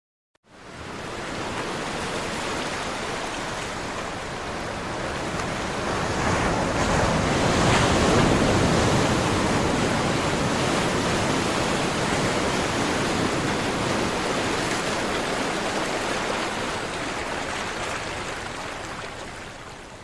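Caribbean sea surf, a steady rush of waves washing ashore that starts after a brief moment of silence, swells to its loudest about eight seconds in and slowly eases off toward the end.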